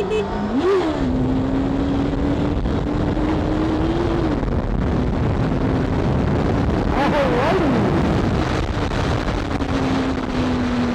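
Motorcycle engine running at a steady speed, its pitch drifting slightly up and down, with wind noise over it. Two brief higher rising-and-falling sweeps come about a second in and again around seven seconds in.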